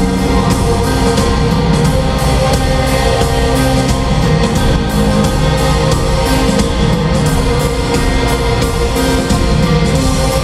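Live rock band playing a loud, steady instrumental passage with guitars and drums keeping a regular beat.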